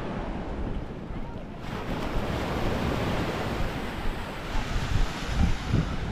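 Wind gusting on the microphone over small waves washing onto the beach; the hiss of the wash rises about one and a half seconds in.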